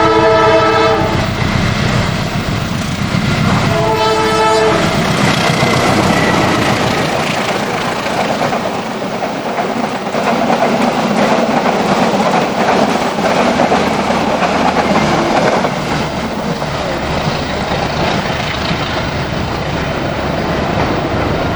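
Indonesian railway locomotive sounding its horn twice, each blast about a second long, the second about four seconds in. The train then passes close by with a steady rumble and clatter of wheels on the rails.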